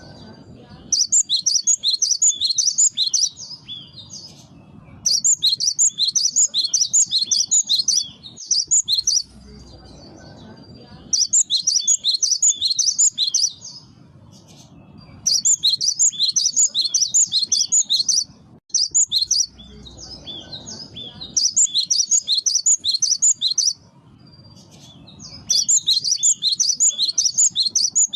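Gelatik batu (cinereous tit) singing in repeated bursts of fast, high, chattering notes, each phrase about two to three seconds long with short pauses between. A faint low rumble fills the gaps.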